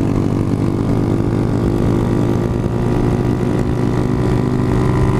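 Honda CG 150 Titan single-cylinder four-stroke engine running at a steady cruising speed through a Fortuna aftermarket exhaust, with a constant rush of wind noise. The engine note holds an even pitch with no revving or gear changes.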